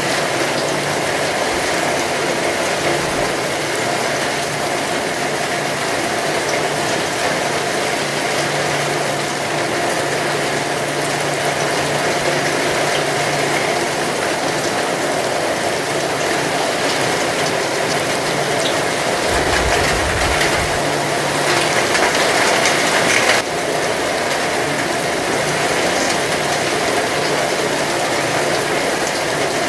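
Heavy rain falling steadily, a dense even hiss. It grows a little louder about three-quarters through, then drops back suddenly.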